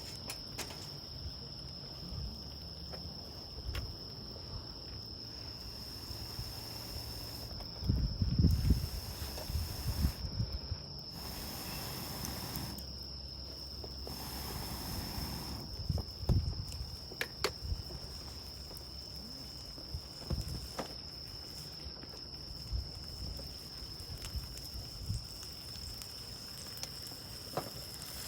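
An insect trilling in one steady high-pitched tone, with scattered knocks and rustles from handling camp gear, loudest about eight and sixteen seconds in.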